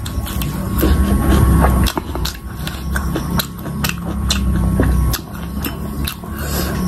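Close-miked chewing of crisp fried pakoda: a run of sharp crunches, several a second, over heavy mouth noise.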